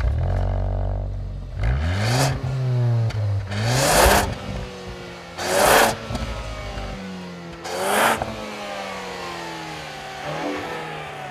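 Ford Focus ST's turbocharged 2-litre EcoBoost four-cylinder exhaust note, revved sharply about four times and falling back toward idle after each rev.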